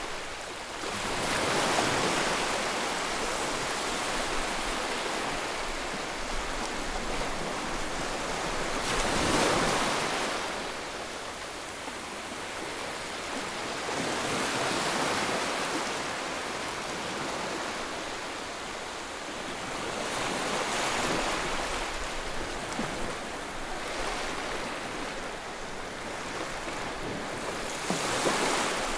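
Ocean waves breaking and washing on a shore, a steady hiss of surf that swells every six seconds or so.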